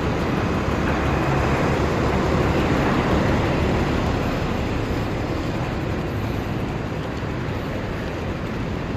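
Road traffic passing close by: a steady rush of tyre and engine noise over a low rumble, swelling over the first few seconds and then slowly easing off.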